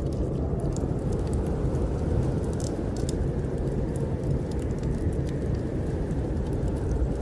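Snowstorm wind blowing steadily as a low, dense rush, with scattered small crackles and pops from a burning wood fire.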